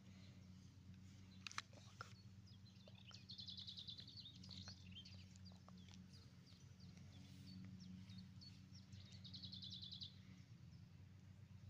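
Faint songbird singing: a rapid high trill twice, about six seconds apart, with scattered short chirps between, over a low steady hum.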